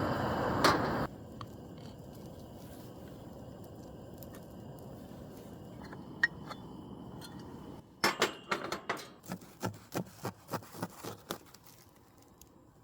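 A run of a dozen or so sharp clicks and taps, irregularly spaced, starting about two thirds of the way in and dying away near the end. Before that, a steady rushing noise cuts off about a second in, followed by a quiet stretch with a few faint ticks.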